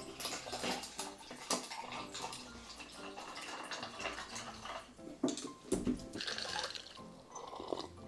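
Ice cubes clinking and liquid sloshing in a glass of cold drink, with short sharp clicks scattered throughout, over background music.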